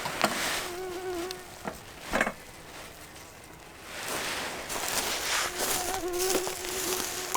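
A fly buzzing close by, twice: briefly about a second in, then longer near the end, its hum wavering in pitch. A few sharp snaps and cracks fall in between.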